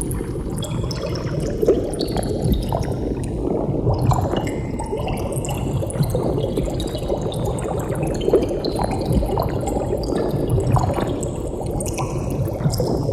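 Water bubbling steadily, a dense stream of bubbles with many small pops and gurgles.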